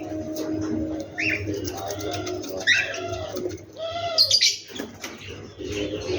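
Several birds calling at once in a morning chorus: sharp high chirps repeating every second or so over lower, drawn-out cooing notes.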